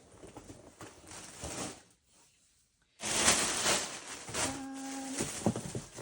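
Rustling of clothing and packaging being handled: soft at first, a near-silent gap of about a second, then louder and denser from about halfway through.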